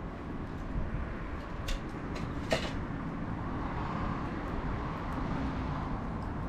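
Bonfire crackling: scattered sharp pops, two louder ones about two seconds in, over a steady low rumble.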